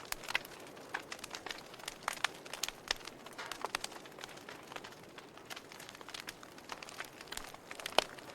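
Wood fire crackling in a fireplace: irregular sharp pops and snaps over a soft steady hiss, the loudest pop near the end.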